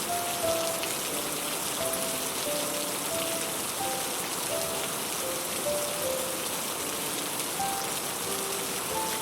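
Heavy rain falling on a roof, a steady hiss. Over it runs a slow, soft melody of short held notes at changing pitches.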